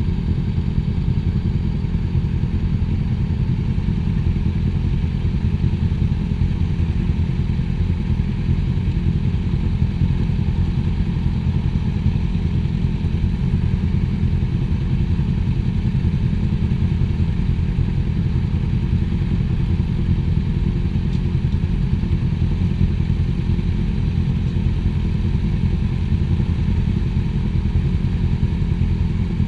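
Motorcycle engine running at a steady speed throughout, with no change in pitch or gaps, its sound concentrated in the low range.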